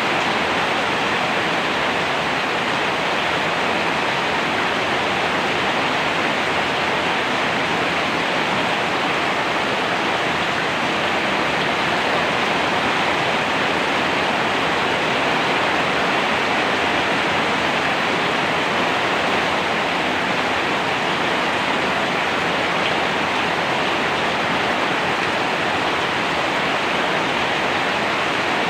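Steady heavy rain falling, a dense even hiss with no distinct drops or thunder.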